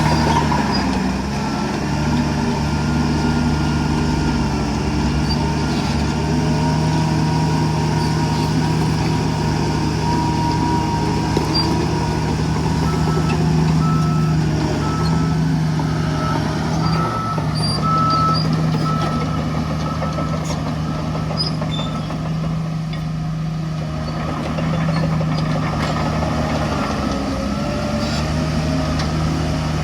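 Heavy diesel earthmoving machinery running steadily under load. A reversing alarm beeps in a regular series, about twice a second, for several seconds around the middle.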